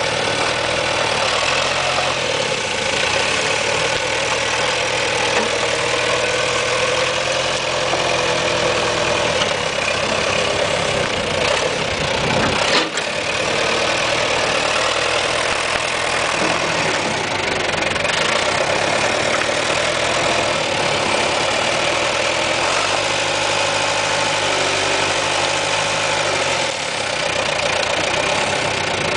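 John Deere tractor engine running steadily, with a single sharp knock a little before halfway through.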